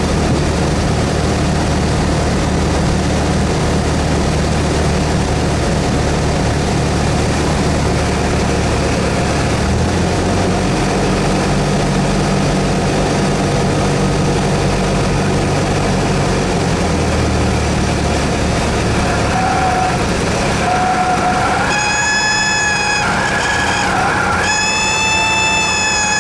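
Cessna 172S's four-cylinder Lycoming engine and propeller running steadily, with its low drone changing pitch twice as the power changes. In the last several seconds a held, pitched tone with overtones comes in over it.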